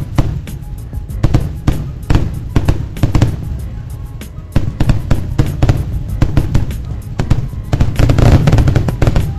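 Fireworks grand finale: rapid volleys of aerial shells bursting and cracking over a continuous low booming. The volleys thin out about four seconds in, then pick up again and are densest near the end.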